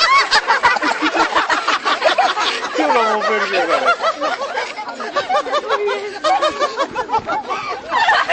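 Bird calling in a fast, unbroken chatter of short notes that each rise and fall in pitch, several overlapping at once.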